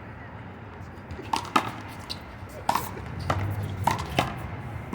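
One-wall handball rally: several sharp smacks of the small rubber ball being slapped by hand, hitting the wall and bouncing off the pavement, some in quick pairs.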